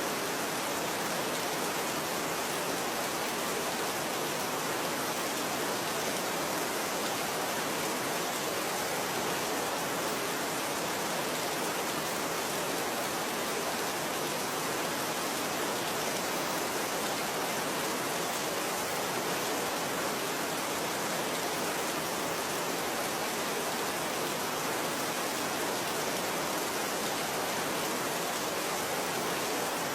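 Steady rain falling, an even, unbroken hiss with no thunder or distinct drops standing out.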